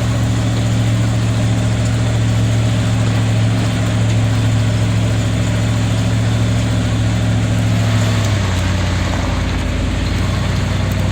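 Vehicle engine running steadily at low speed over a rough dirt road. Its note drops to a lower pitch about eight seconds in.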